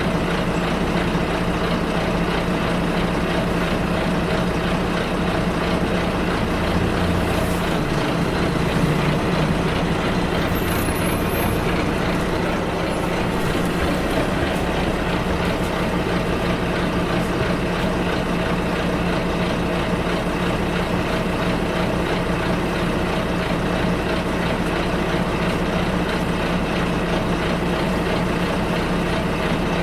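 Bus engine running steadily with road noise, heard from inside the bus. The engine note shifts briefly about seven to nine seconds in.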